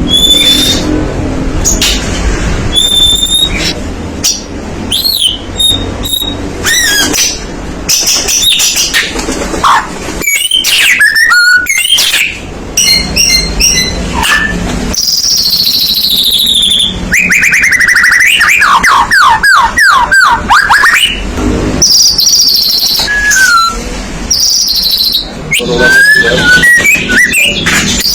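White-rumped shama singing a loud, varied song of whistles, chattering and quick trills, with a long run of rapid sweeping notes in the middle.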